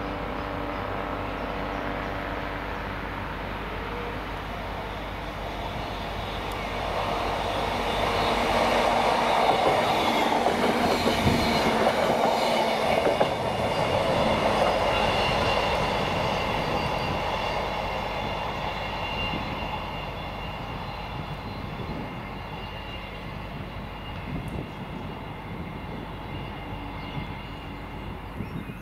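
Class 158 diesel multiple unit passing through a station. Its engine and wheels on the rails grow louder to a peak about ten seconds in, then fade as it moves away.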